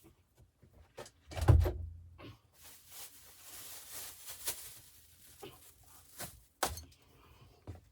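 A heavy thump about a second and a half in, then a few seconds of rustling and a sharp knock near the end.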